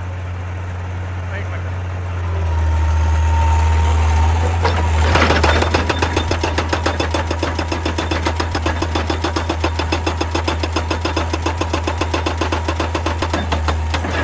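Excavator's diesel engine running, rising in load about two seconds in, then a sudden loud burst followed by a steady rapid clatter of about four to five strokes a second.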